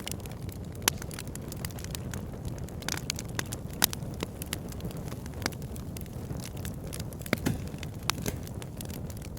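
Wood fire burning in a fireplace: a steady low rumble of the flames with frequent sharp crackles and pops from the logs. The loudest pops come about one second and about four seconds in.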